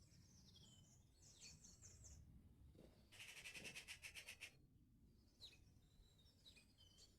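Several songbirds singing: a fast rattling trill about three seconds in, lasting just over a second, with rapid high note series and short whistled glides around it, faint over a low background rumble.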